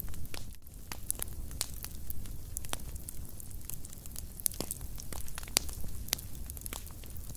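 An open fire in a fireplace crackling: irregular sharp snaps and pops over the low, steady rumble of the flames, with one of the loudest pops a little past halfway.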